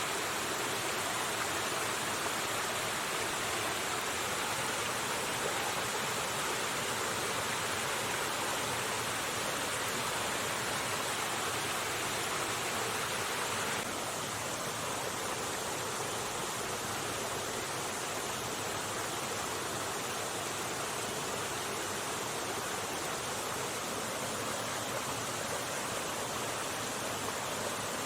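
River water flowing, a steady rushing that shifts slightly and gets a little quieter about halfway through.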